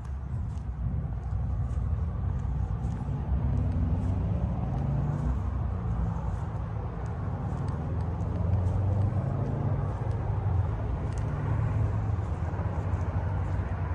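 A motor vehicle's engine running close by: a low, steady rumble that swells and eases a little.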